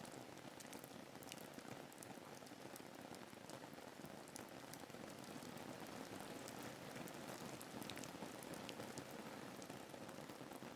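Soft, steady rain ambience: an even patter of rainfall with scattered faint drop ticks.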